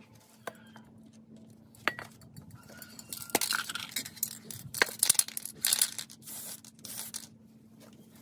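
Small hard parts being handled and worked: several sharp clinks and clicks with bursts of scraping or rubbing noise, the busiest stretch in the middle, over a faint steady hum.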